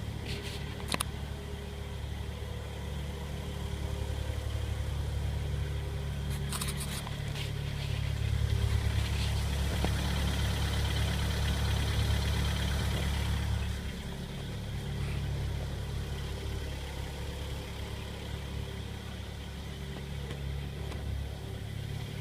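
Car engine idling cold, recorded at about plus 12 degrees. It runs louder for a few seconds from about eight seconds in, then drops back to a steady idle near fourteen seconds, with a few light clicks early on.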